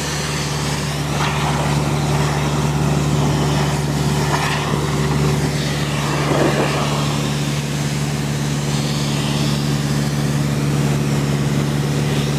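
Diesel-powered air compressor running steadily while its hose blasts a strong, continuous jet of compressed air.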